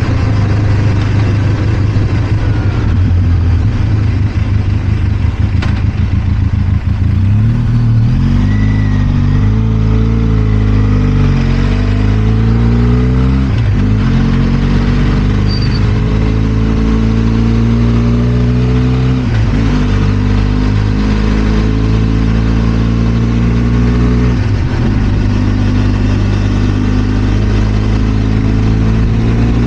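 Benelli TRK 502 X's 500 cc parallel-twin engine running on the road. It is steady at first, then revs rise through the gears, with brief dips at several upshifts.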